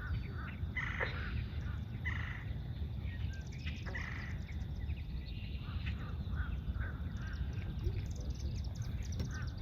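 Several marsh birds calling: short calls repeated every fraction of a second and clusters of high chirps, over a steady low rumble.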